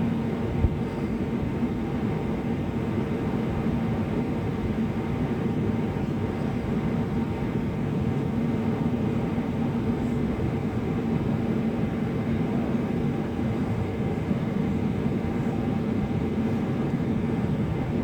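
Steady drone of an airliner cabin in flight, engine and airflow noise heard from inside, with a faint steady hum in it. A single short click sounds about half a second in.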